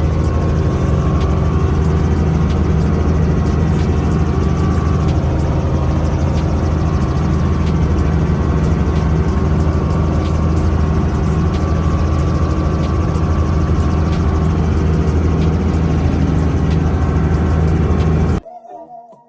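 Helicopter rotor and engine noise, loud and steady, cutting off suddenly near the end.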